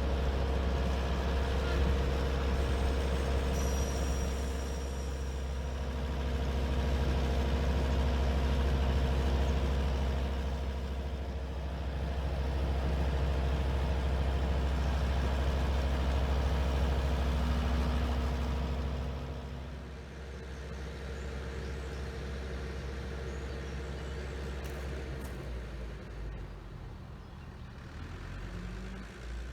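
Heavy truck's diesel engine running steadily, dropping to a quieter run about two-thirds of the way through.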